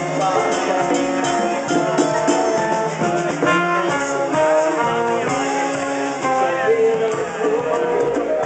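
Live band music with guitar, a run of held, shifting melodic notes over a steady loud mix.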